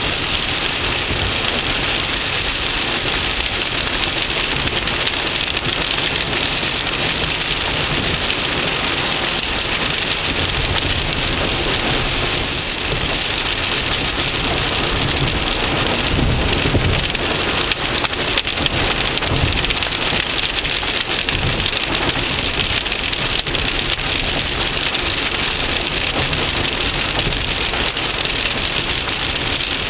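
Steady heavy rain pattering down, with a brief low rumble and a few sharper hits a little past the middle.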